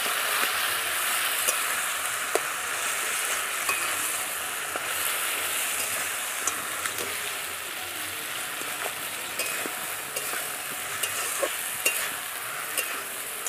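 Fish heads sizzling in spiced masala in a metal kadai while a metal spatula breaks them up and stirs, with scattered light taps and scrapes of the spatula against the pan over a steady sizzle.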